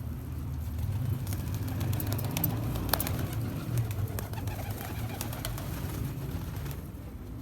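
Domestic pigeons cooing in a low, steady murmur, with a few sharp taps or clicks about two to three seconds in.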